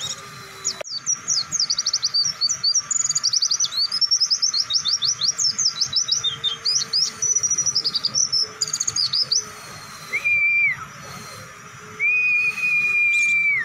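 A white-eye (pleci) singing a long, rapid song of quick, high, chattering chirps for about nine seconds. Then come two long, flat whistled notes, the second longer, each dropping in pitch as it ends.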